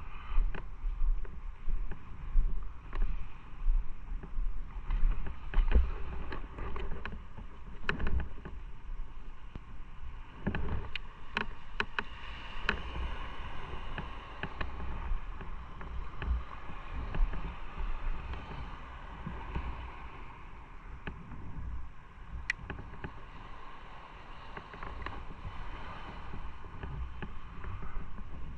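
Motorcycle riding along the road: the engine runs under gusty wind buffeting on the microphone, with a few short clicks and knocks around the middle.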